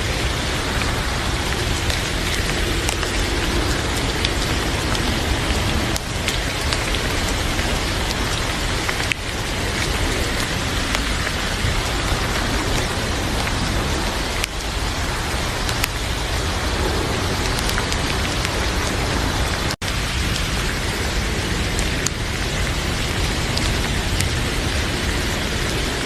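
Heavy rain falling steadily, a dense even hiss with a few faint clicks scattered through it. It cuts out for an instant about twenty seconds in.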